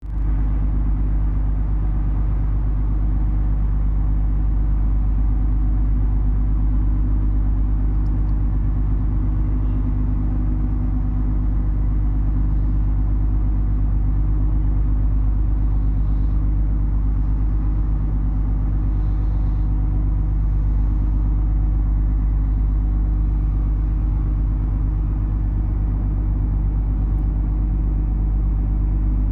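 Steady low drone of the motor ship Sergei Diaghilev's diesel engines running at a constant speed, unchanging throughout.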